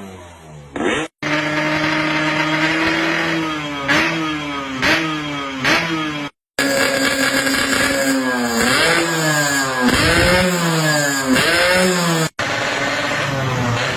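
Yamaha RX-King two-stroke single-cylinder engine through aftermarket racing exhausts, idling and revved in quick blips, in a few separate clips joined with abrupt cuts.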